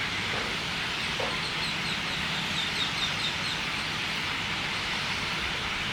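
A bird gives a quick run of about ten short, high, slightly falling notes, about five a second, starting about a second and a half in and lasting some two seconds. A steady hiss of background noise runs underneath.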